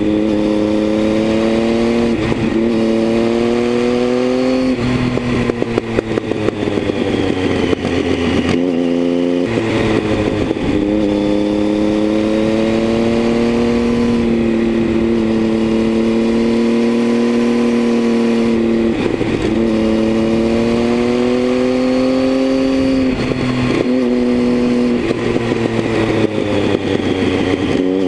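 Triumph Tiger 800's three-cylinder engine with a LeoVince aftermarket exhaust, heard from on the bike while riding: the engine note rises and falls in pitch as the rider accelerates and eases off through the bends, and briefly breaks off about four times as the throttle is closed.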